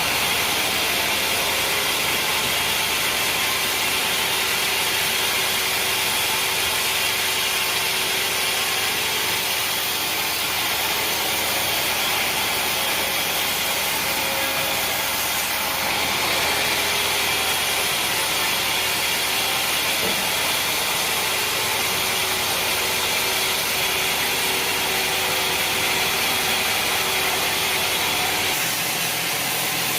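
Sawmill saw running and cutting through mahogany wood, a loud, steady sawing noise that holds even throughout.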